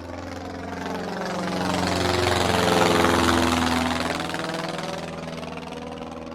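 A motor vehicle's engine passing by. It builds to its loudest about three seconds in, drops in pitch as it goes past, and fades away.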